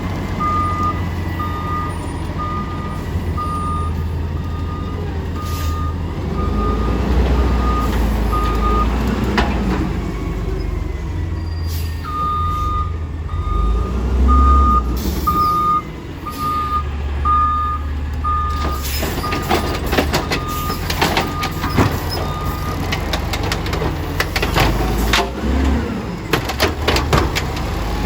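Small garbage truck running with its engine revving up and down while its reverse alarm beeps about once a second, in two runs with a short break between. In the latter part, a run of sharp clanks and knocks.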